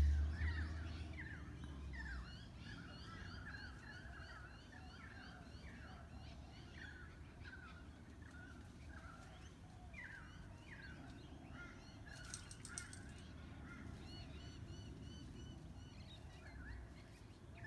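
Several unidentified birds calling together in a continuous chorus of short, rapidly repeated calls, overlapping one another. A low rumble sounds in the first two seconds.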